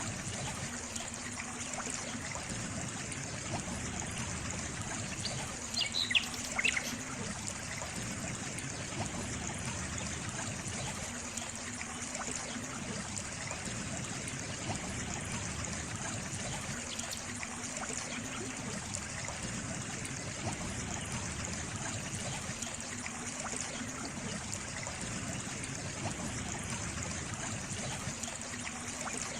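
Water trickling and flowing steadily, like a small stream, with a few brief high chirps about six seconds in.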